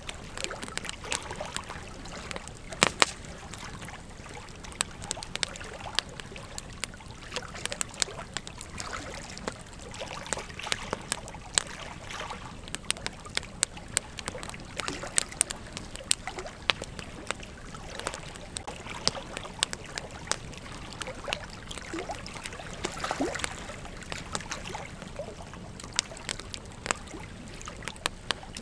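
Wood campfire crackling and popping: irregular sharp snaps, several a second, over a steady hiss, with the loudest pop about three seconds in.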